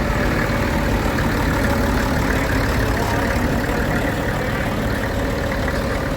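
An engine idling steadily, most likely one of the classic tractors running at the display.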